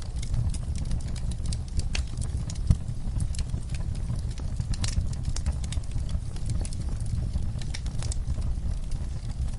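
Wood fire crackling in a fireplace: irregular sharp pops and snaps over a steady low rumble of the flames, with one louder pop almost three seconds in.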